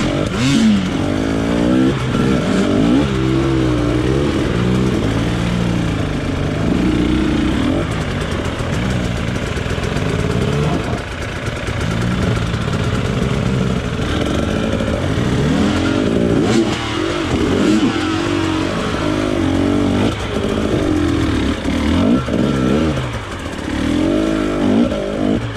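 Off-road motorcycle engine on a trail ride, revving up and down again and again as the throttle is opened and closed, the pitch rising and falling every second or two.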